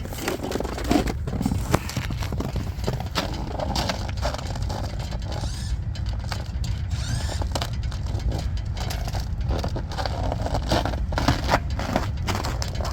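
Rooftop HVAC unit running with a steady low rumble, overlaid by repeated scraping, clicking and crackling of parts being handled inside the unit.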